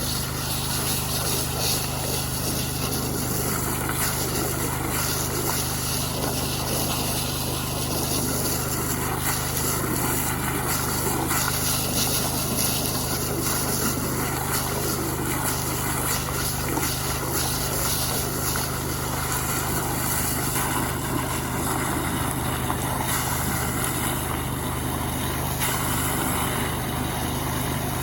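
Small Robin petrol engine running steadily at a constant speed.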